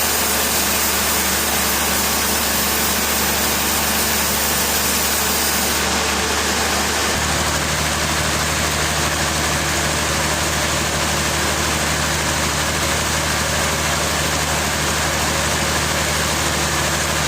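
Engine running steadily at a constant speed, its low note shifting slightly about seven seconds in.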